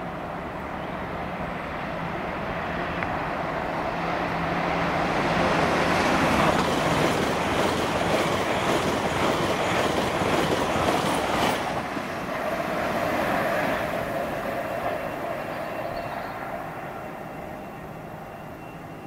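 A train passing through a station. Its noise builds over about six seconds and is loudest for about five seconds, with rapid clicking from the wheels, then it fades away.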